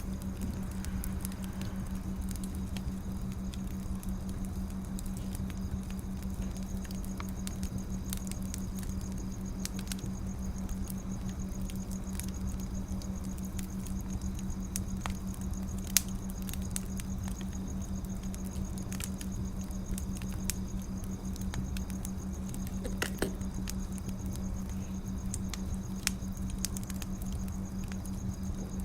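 Wood fire crackling: scattered irregular pops and snaps over a steady low hum, with one louder pop about halfway through.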